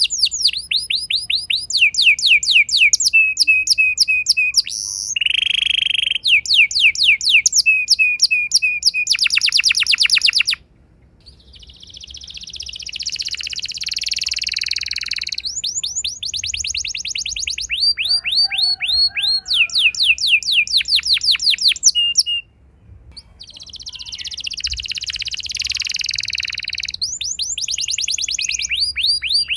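Domestic canary singing long rolled trills: tours of rapidly repeated, falling whistled notes that switch from one note type to the next. Twice the rolls give way to a softer, denser warbling passage.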